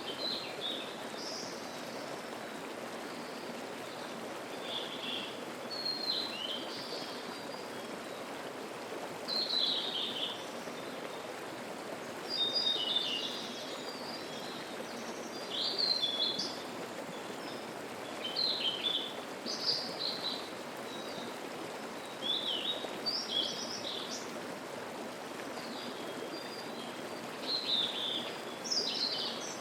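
Mountain stream flowing steadily, with a songbird singing short, high phrases every couple of seconds over it.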